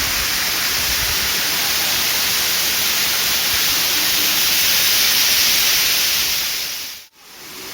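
Waterfall rushing, a steady loud hiss of falling water that fades out and back in about seven seconds in.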